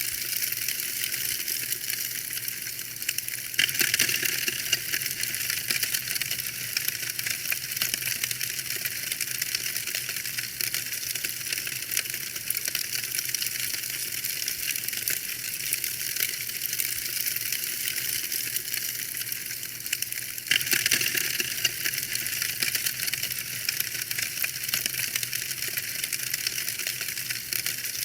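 Wood fire burning in a fireplace, crackling steadily with a dense run of small pops and snaps over a soft hiss. The crackling flares up louder about four seconds in and again about twenty seconds in.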